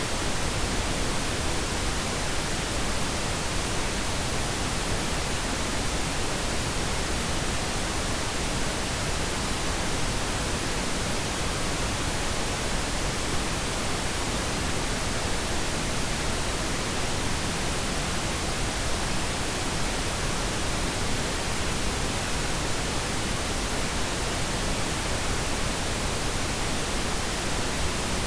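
Steady, unchanging pink noise: an even hiss spread across all pitches, with no events or changes.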